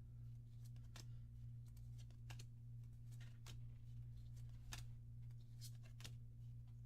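Faint scattered crinkles and ticks of a trading-card booster pack being opened and its cards handled, over a steady low hum.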